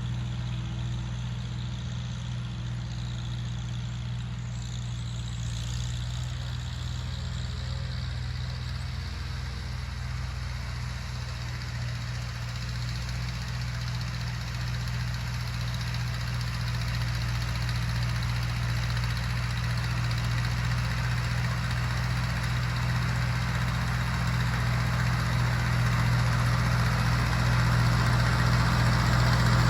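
Tractor engine running steadily at a low, even speed, growing gradually louder through the second half.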